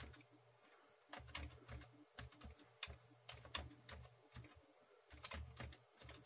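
Faint, irregular clicking of computer keyboard keys being pressed, starting about a second in.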